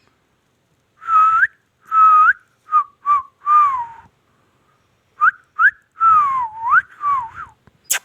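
Parrot whistling: two phrases of short whistled notes that glide up and down in pitch, the second phrase starting about five seconds in.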